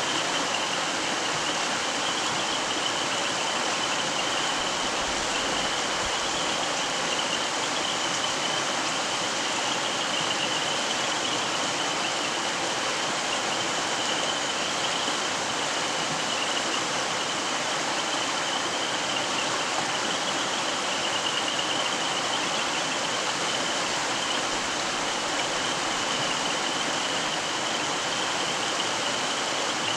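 Mountain stream running over rocks: a steady, even rush of water. A faint high-pitched note runs along underneath.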